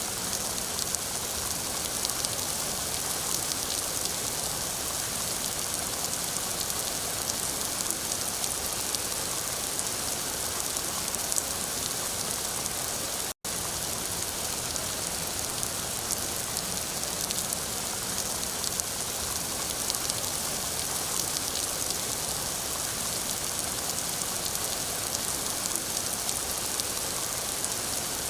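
Steady rain falling, an even dense hiss with fine patter of drops, strongest in the high end. The sound drops out for an instant about halfway through.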